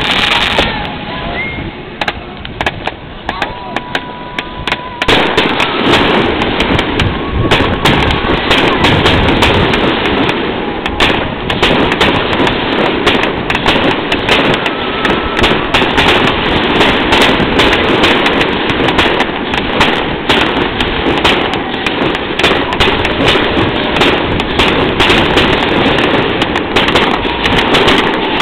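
Fireworks display: bangs and crackling shells going off, fairly sparse for the first few seconds, then a dense, continuous barrage of overlapping bangs and crackles from about five seconds in.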